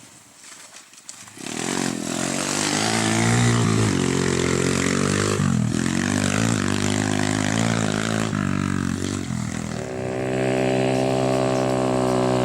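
Motorcycle engine pulling through the gears, its pitch climbing and then dropping at each shift. It starts faint, comes in strongly about a second and a half in, and holds at steady high revs near the end.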